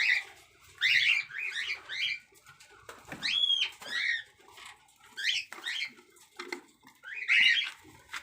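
Cockatiels chirping and calling in short clusters every second or so, with one longer whistled note about three seconds in.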